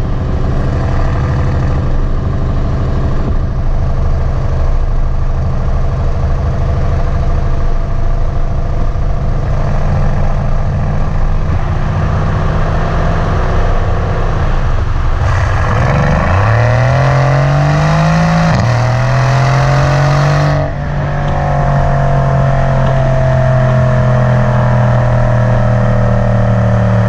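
Mercedes-AMG C63 S twin-turbo V8 running with its flap exhaust open. It holds a steady drone, then pulls hard with the revs rising through about two gears past the middle. After a short lift it settles back to a steady cruise.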